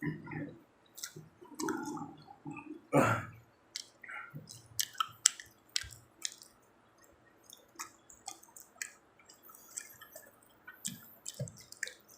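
Food being chewed close to the microphone, with irregular wet mouth clicks and smacks and a few soft low mouth noises.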